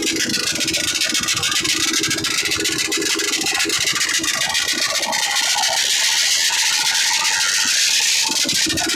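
Vehicle engines running steadily, with a dense hiss and crackle over the engine tone.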